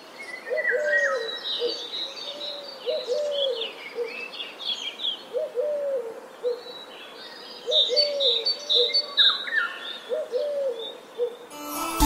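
A dove cooing in a repeated phrase of two drawn-out notes and a short one, about every two and a half seconds, with small birds chirping and twittering at a higher pitch. Music starts right at the end.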